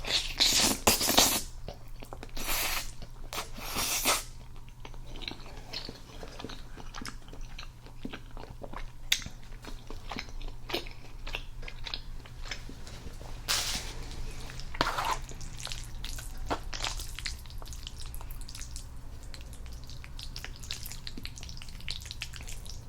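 Close-miked eating sounds: wet chewing of spaghetti in meat sauce, with many small sharp mouth clicks and smacks. A few louder, noisier bursts come in the first four seconds and again around the middle, over a faint steady low hum.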